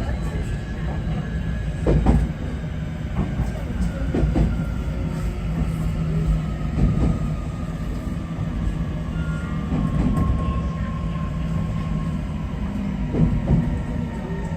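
JR Kyushu 811-series electric train heard from inside the front, its VVVF inverter whine slowly falling in pitch as the train slows, over a steady running rumble. Wheels knock over rail joints every couple of seconds.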